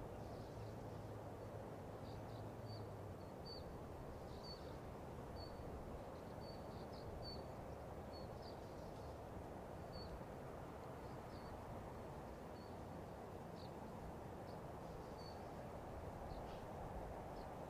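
A small bird calling with short high chirps, one or two a second, over a steady low rushing noise.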